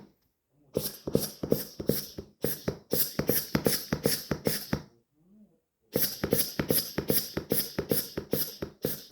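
German shepherd rapidly chomping a ball, each bite pumping a sound out of the ball in quick, even strokes of about five a second. The runs break off briefly near the start and again about five seconds in.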